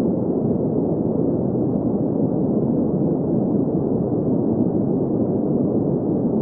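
Steady green noise: a constant even hiss weighted to the low middle and cut off above the treble, with no change in level.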